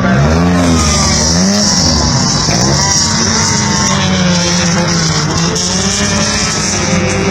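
Race car engines revving in repeated rising-and-falling blips, then running more steadily with pitches that slide downward.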